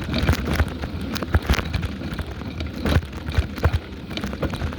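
Bicycle riding noise picked up by a phone taped to the bike: irregular knocks and rattles over a low rumble of tyres and wind.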